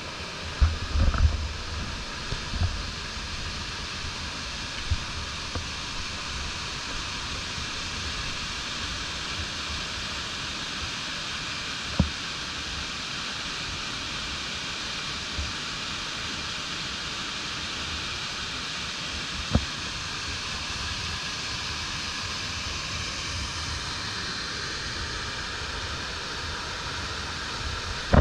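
Stream water rushing steadily, with a few low thumps early on and two sharp knocks, one about midway and one later.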